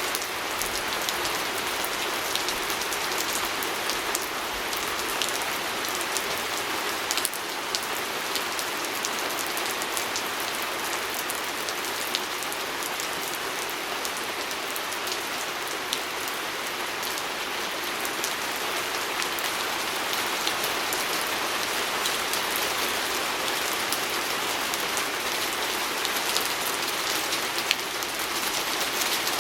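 Steady rain falling on a window, an even hiss with many small sharp drop ticks scattered through it.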